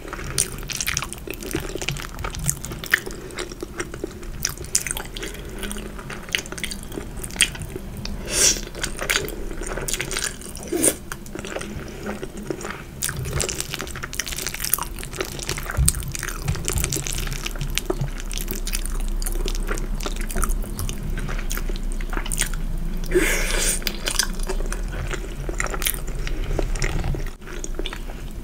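Close-miked chewing and biting of food, a dense run of irregular crackly and wet mouth clicks.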